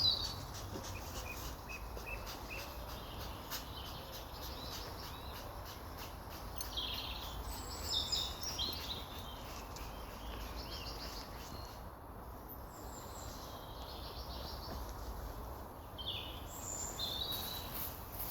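Woodland songbirds singing in short scattered phrases, busiest about seven seconds in and again near the end, over a steady low outdoor background rumble.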